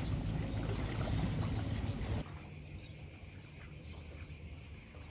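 Crickets chirring steadily. A low, steady hum, like a motor, runs underneath and drops away sharply about two seconds in.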